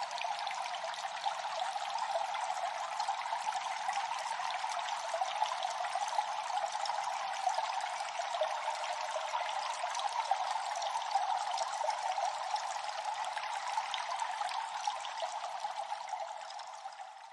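Water dripping and trickling in a cave, many drops falling over a steady wash of running water, fading out near the end.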